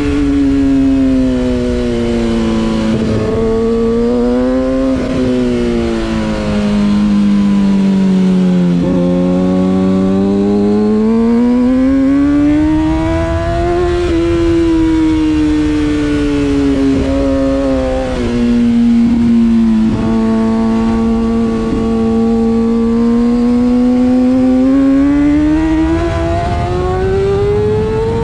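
Stock Kawasaki ZX-6R inline-four engine at high revs on track. The pitch falls and rises over several seconds as the rider rolls off into corners and drives out again, with a few brief breaks at the gear changes.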